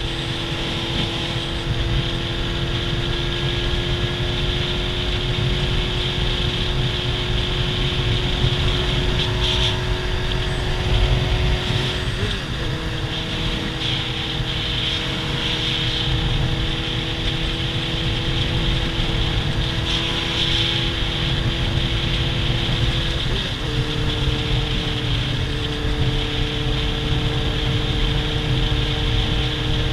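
Sport motorcycle's inline-four engine running at steady cruising revs while riding, its pitch holding level or creeping up, with two quick gear changes about 12 and 23 seconds in.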